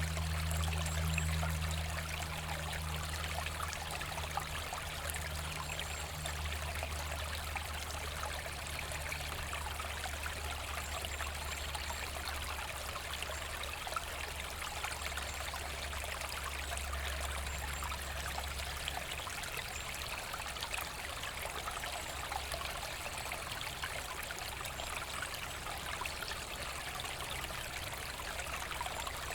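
Forest brook flowing steadily, a continuous trickling and babbling of water, with a low rumble underneath that fades out about two-thirds of the way through.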